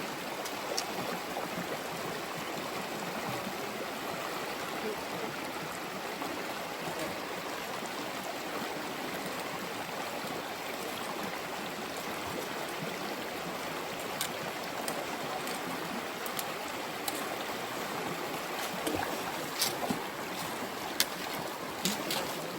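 Mountain stream rushing steadily. A few sharp clicks or knocks come near the end.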